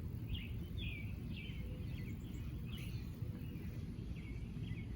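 A bird calling, a string of short high chirps roughly every half second, over a steady low rumble of background noise.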